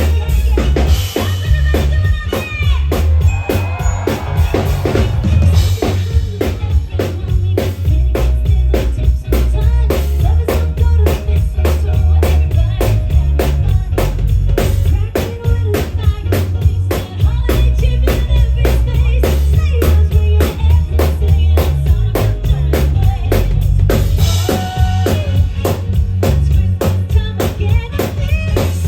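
Live band playing amplified music with a drum kit keeping a steady beat over heavy bass.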